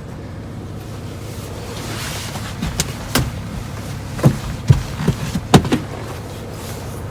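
A person climbing out of an SUV through its window, with a run of about eight sharp knocks and thumps against the vehicle over about three seconds, over a steady low hum.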